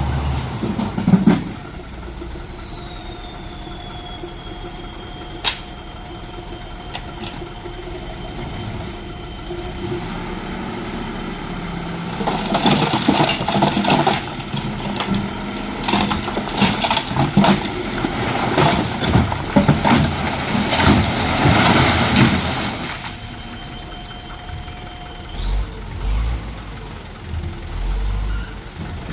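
A dump truck's engine runs with a high whine that falls at first, holds steady, then climbs in steps near the end. For about ten seconds in the middle comes a loud, rushing clatter of the truck's load of earth and rocks sliding out.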